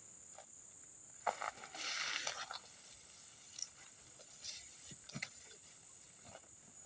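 Insects, likely crickets, keep up a steady high-pitched drone, with scattered rustles and light clicks over it. The loudest rustling comes about two seconds in.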